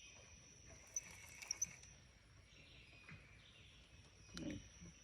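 Quiet outdoor ambience with a steady high insect drone, a few faint clicks about a second in, and a short sound near the end.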